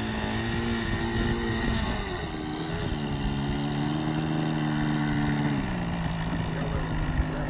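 RC model airplane's engine running at low throttle on the ground, its pitch stepping down twice as the throttle is eased back.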